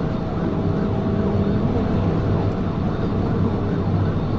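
Steady engine and road noise of a police patrol vehicle driving at high speed in a pursuit, around 90 mph.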